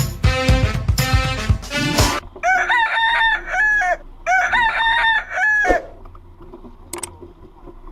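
A rooster crowing twice, each crow a run of arched, rising-and-falling syllables, starting just after a music track stops about two seconds in.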